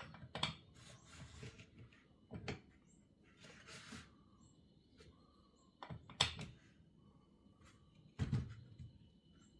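Scattered clicks and knocks of metal hand tools on a chainsaw under disassembly, as the clutch is worked loose against a piston stop. A few separate knocks with quiet between, the loudest about six seconds in and another about eight seconds in.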